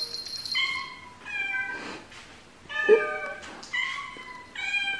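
House cats meowing: about five short, high-pitched meows in a row, each falling slightly at the end. The one about three seconds in is the loudest.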